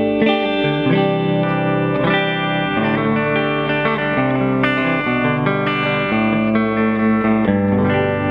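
PRS semi-hollow electric guitar with P90 pickups played through an amplifier. Ringing chords change about once a second, each with a fresh pick attack.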